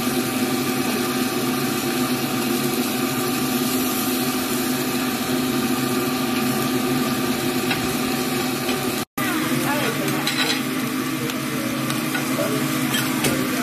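Fish, meat and eggs sizzling in oil on an iron griddle pan as a metal spatula scrapes and turns them, over a steady hum. The sound cuts out for an instant about nine seconds in.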